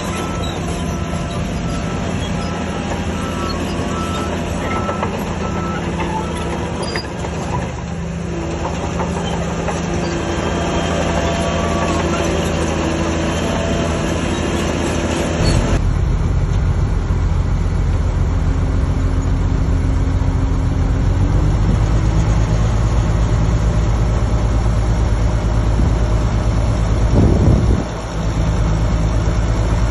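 Diesel engines of heavy earthmoving machinery running steadily, turning deeper and louder about halfway through, with a brief drop near the end.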